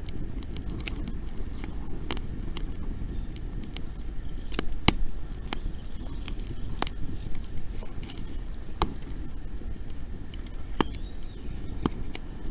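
Wood bonfire of dry fuel crackling, with irregular sharp pops and snaps over a steady low rumble.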